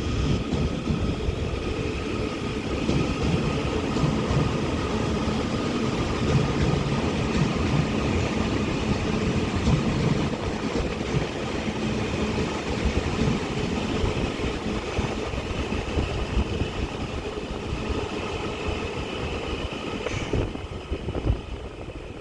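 Northern Class 331 electric multiple unit pulling out of the platform: a steady electric whine from its traction equipment over the rumble of the train moving on the track.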